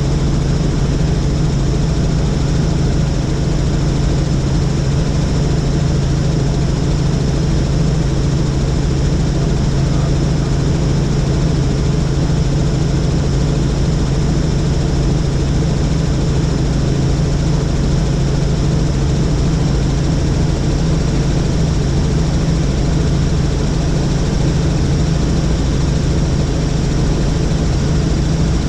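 Helicopter in flight: the engine and rotor make a loud, steady low hum that holds level without change.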